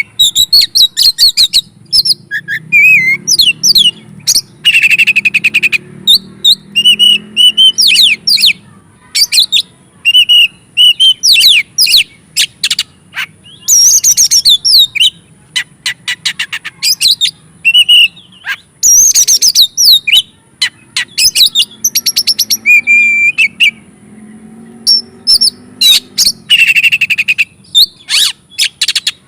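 Oriental magpie-robin (kacer) singing a loud, fast, varied song. It mixes clear whistles and sliding notes with rapid clicking trills and short harsh rasping phrases, with brief pauses between phrases.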